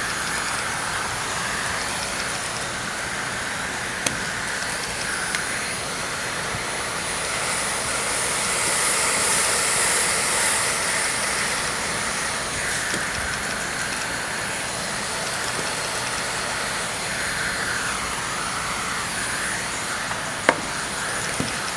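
Hot-air heat gun blowing steadily while a patch is heat-welded onto a trailer curtain, with a sharp click near the end.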